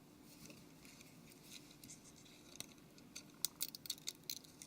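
Faint light clicks and ticks of small tools and parts inside a Nokia Lumia 720 as the display flex cable connector is unclipped from the main board, with a quick run of clicks in the second half.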